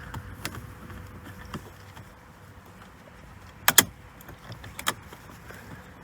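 Sharp plastic clicks as the rotary headlight switch of a Mercedes C-Class W204 is turned, pulled and worked out of the dashboard: faint ticks early, a sharp double click a little past halfway, and another click about a second later.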